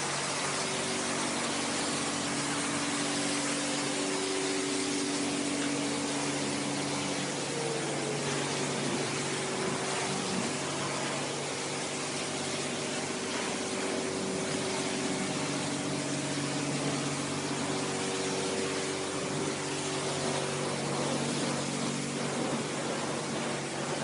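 Self-service car wash pressure washer running: a steady hiss of high-pressure water spray over the constant hum of the pump.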